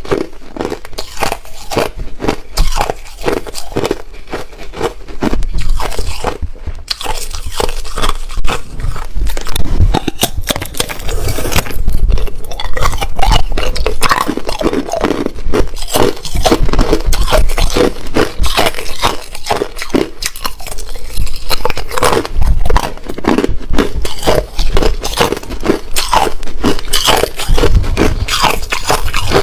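Close-up crunching of hard ice being bitten and chewed, dense and irregular, loud at the microphone.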